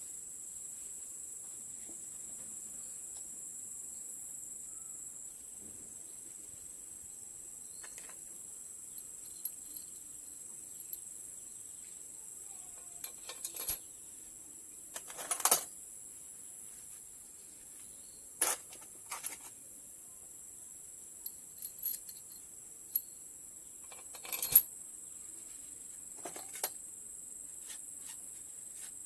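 Scattered short metallic clinks and taps of hand tools and engine parts being handled, about a dozen at irregular intervals; the loudest comes about halfway through and another a few seconds before the end. Under them runs a steady high-pitched insect chirring.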